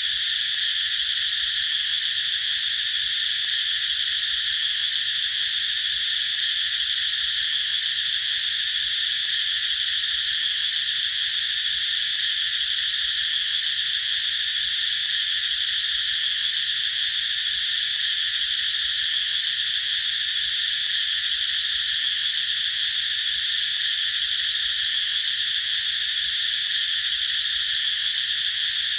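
Cicadas singing in a dense chorus: a steady high-pitched buzz that holds without a break.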